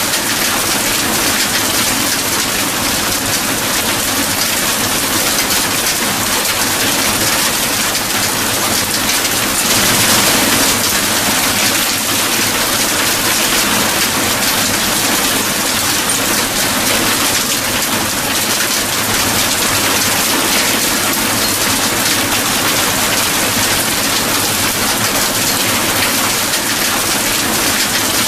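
Steady heavy rain, an even rushing patter that swells slightly about ten seconds in.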